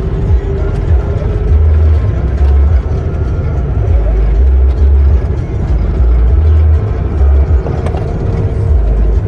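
Motor vehicle running along a road, with music playing over it whose heavy bass notes come in a steady rhythm.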